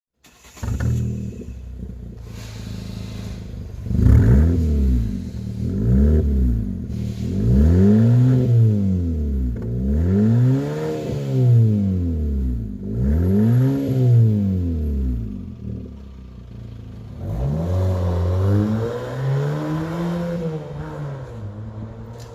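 Fiat 500 with a loud aftermarket dual sport exhaust with two oval tailpipes. The engine comes in suddenly and idles briefly, then is revved about six times, each rev rising and falling back, with the last one longer and held near the end.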